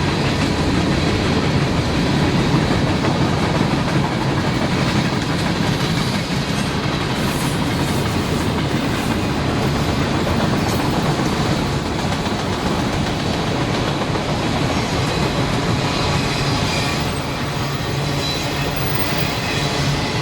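A CSX freight train's cars rolling past, a steady rumble of steel wheels on the rails with clickety-clack over the rail joints and a few sharp clicks in the middle.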